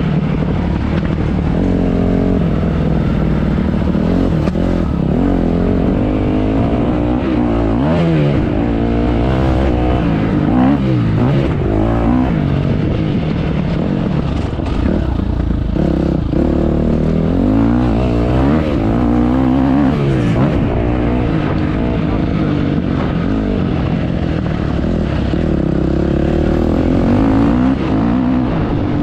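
Motocross bike engine revving up and down again and again as it is ridden, its pitch rising and falling every second or two.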